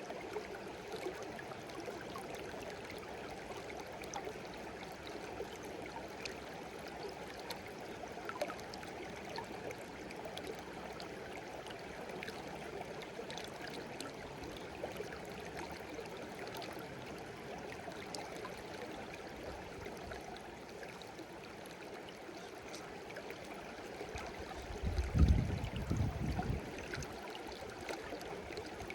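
A shallow stream babbling steadily over stones, with small splashes and trickles. Near the end a brief low rumble rises above it for two or three seconds.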